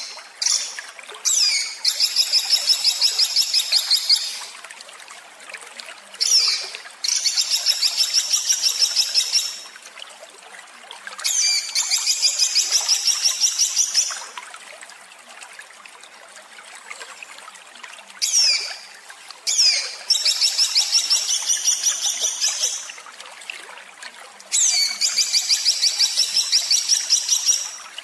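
Small songbird singing harsh, rapid-fire 'tembakan' phrases: each is a short downward-sweeping note followed by a fast, rattling trill lasting two to four seconds, repeated about five times with pauses between, over a faint steady trickle of water.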